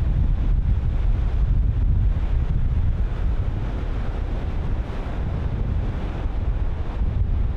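Wind buffeting the microphone in a heavy low rumble over the steady wash of ocean surf.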